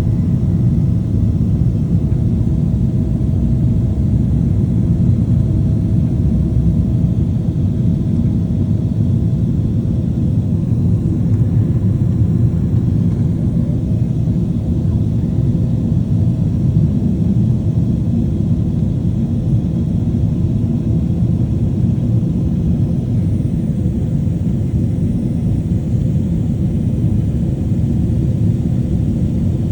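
Steady, low cabin rumble of a Boeing 767-400ER in its climb after takeoff, heard from inside the passenger cabin: jet engine and airflow noise. A faint steady whine sits above the rumble for the first nine seconds or so, then fades.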